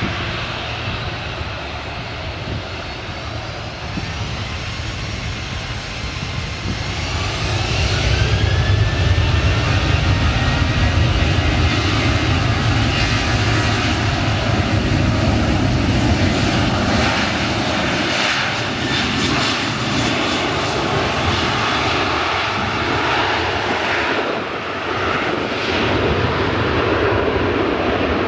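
Boeing 737-800's CFM56-7B turbofan engines spooling up for takeoff: a whine climbs in pitch over several seconds, then a loud, steady jet roar at takeoff thrust.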